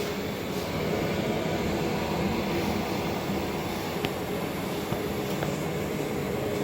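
Steady whirring hum of room ventilation or machine fans, with a faint click about four seconds in.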